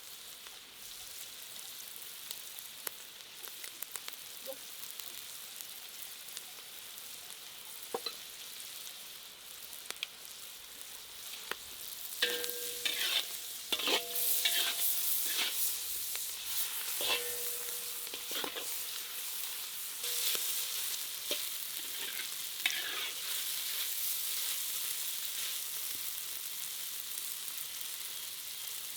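Food sizzling as it fries in a pan while it is stirred with a metal utensil, with scraping clicks. The sizzle grows louder about halfway through, and the utensil strikes the pan several times with short ringing clanks.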